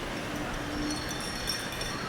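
Steady city street ambience, a haze of traffic noise. A short low hum sounds about half a second in, and faint high clinks start near the end.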